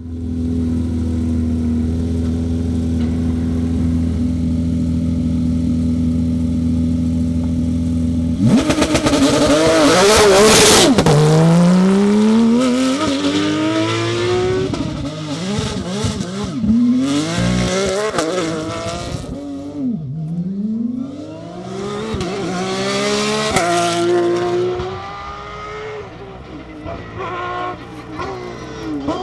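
Porsche 992 Rally GT's flat-six engine held at steady revs for about eight seconds, then a sudden loud jump as the car launches hard. The revs climb and drop again and again as it shifts up through the gears, becoming more broken near the end.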